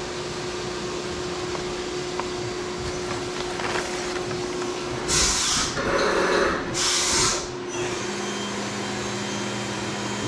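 Steady running hum of a Fanuc Robodrill CNC machine cutting parts, whose pitch shifts lower about eight seconds in. Two short, loud hissing rushes of noise cut through it around the middle.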